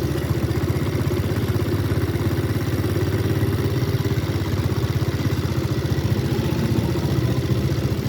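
Three-wheeled cargo motorcycle's engine running steadily, with a fast, even firing beat.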